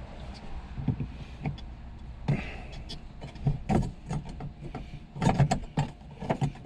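Hands and tools working on a car's fuel pump fittings: a run of irregular clicks and knocks, with a cluster of louder ones about five seconds in, over a low steady rumble.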